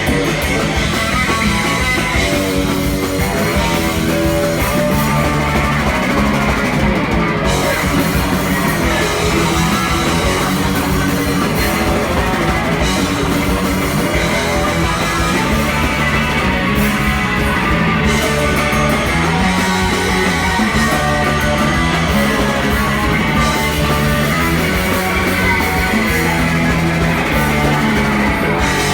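Live punk rock band playing loud and continuous, with guitar and drum kit.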